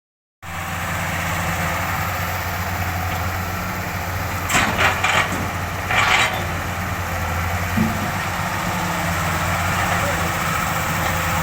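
Diesel engine of a Cat 311D hydraulic excavator idling steadily, cutting in about half a second in. A few brief louder noises come over it in the middle.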